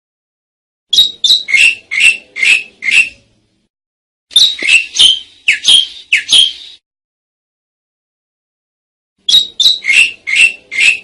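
Asian pied starling (jalak suren) calling: three bursts of about six quick, harsh notes each, every note sliding down in pitch, with a pause of a second or two between bursts.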